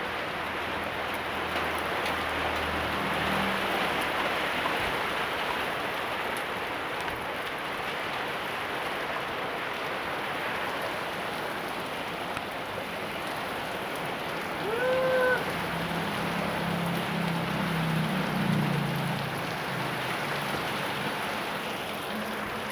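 Heavy rain falling steadily, a dense even hiss. About two-thirds of the way through, a short pitched sound rises and falls over it.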